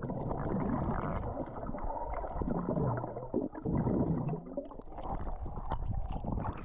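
Muffled gurgling and sloshing of sea water, with the camera's microphone at or under the surface as a swimmer moves through the water. In the middle there are low, muffled sounds sliding up and down in pitch.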